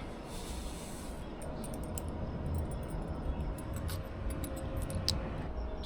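Light scattered clicks and clinks of a spork stirring powdered drink mix into juice, over a low steady rumble.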